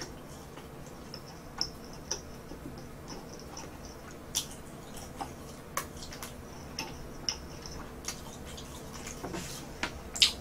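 Close-mic chewing of crispy toasted garlic bread: soft crunches and wet mouth clicks at irregular intervals.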